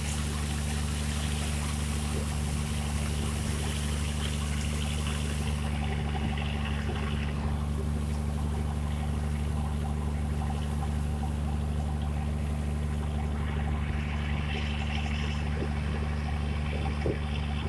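An engine running steadily with a constant low hum, under an even hiss that thins about six seconds in.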